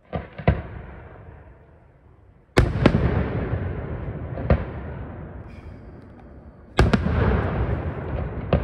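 Aerial firework shells bursting: a handful of sharp bangs, the loudest about two and a half seconds in and again near the end, each trailing off in a long rolling echo.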